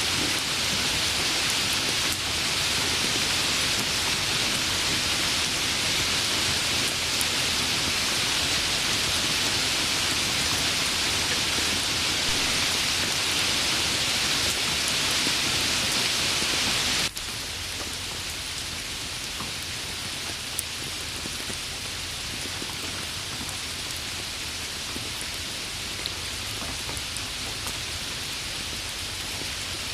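Steady heavy rain hissing. About 17 seconds in it cuts abruptly to lighter, quieter rain, with a few single drops ticking out.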